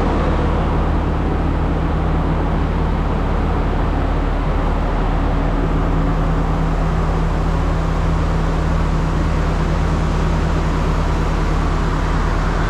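Diesel train engine idling: a steady low hum with an even rumble that does not change.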